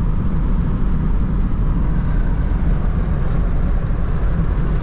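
Steady road and engine rumble heard from inside a vehicle cruising at highway speed, low and even throughout.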